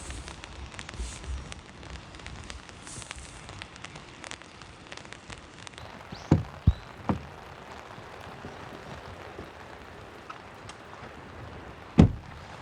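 Steady rain with scattered drops pattering on a surface. Three sharp thumps come about six to seven seconds in and a single louder thump near the end.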